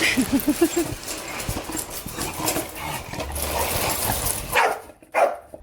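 An animal's quick run of about five short pitched cries early on, over a steady background hiss, with two brief swishing sounds near the end.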